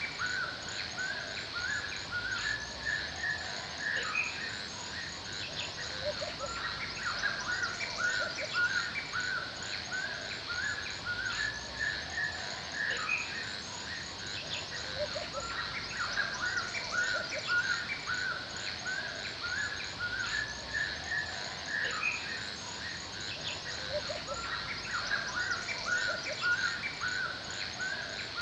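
Forest ambience: many birds chirping and calling at once, with short repeated notes, over a steady high insect hum.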